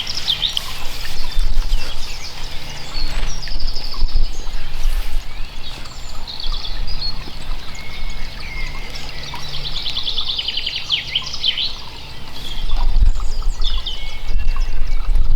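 Songbirds singing, with fast repeated trills that come and go, over a steady low rumble.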